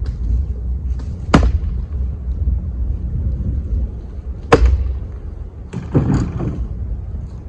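Split firewood being handled: two sharp knocks of wood on wood a few seconds apart, then a short clatter. Wind buffets the microphone throughout as a low rumble.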